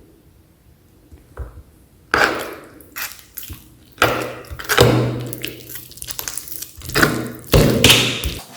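Meat grinder working on jelly candy: after a quiet start, a run of knocks and rough scraping noises begins about two seconds in.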